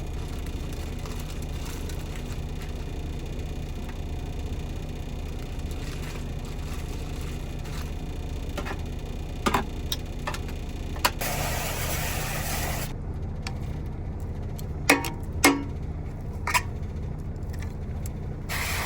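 Steady low hum of an idling semi-truck engine, with scattered clicks and knocks as chicken wings are loaded into an air-fryer basket. A loud hiss lasts about two seconds a little past the middle, and a few sharper knocks follow it.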